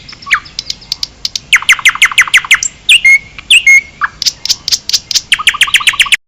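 Forest birds singing and calling in rapid trills of sharp, down-slurred notes, several phrases in a row, until the sound cuts off suddenly near the end.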